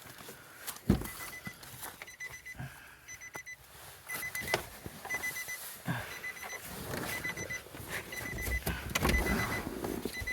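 A pickup truck's electronic warning chime beeping over and over, a rapid high beep in short repeated runs. It starts after a loud thump about a second in, with knocks and rustling of someone climbing into the cab and shutting the door.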